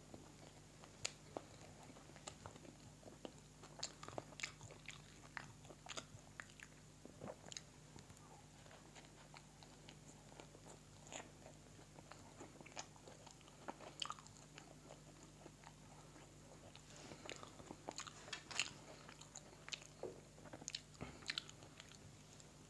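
Close-up chewing of a chapli burger: irregular soft wet smacks and light crunches of bun, salad and patty, getting busier in the last third.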